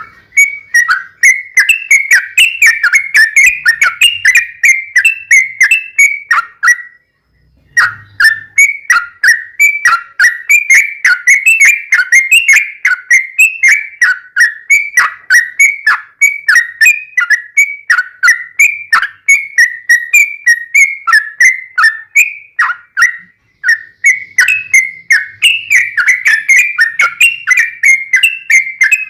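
Yellow-vented bulbul (trucuk) singing a long, fast run of chirping notes that slide up and down in pitch. There are two short breaks, about seven and twenty-three seconds in.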